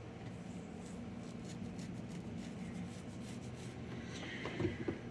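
Quiet pause: a low steady hum with faint soft ticks, and a short soft sound near the end.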